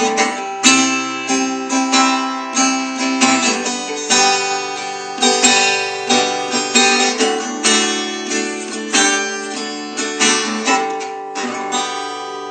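Acoustic guitar strumming chords in a steady rhythm, an instrumental passage of a hymn accompaniment with no voice.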